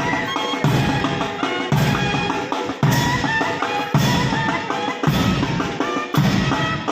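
Military march music: a steady, heavy bass drum beat about once a second with snare drums, under a melody of held notes.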